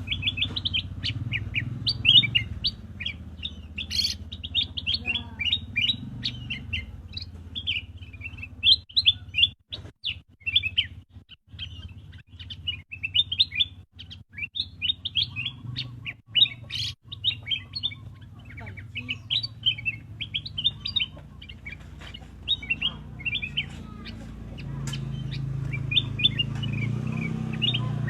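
Black-crested bulbul chirping in a quick, continual run of short high notes, over a low steady hum.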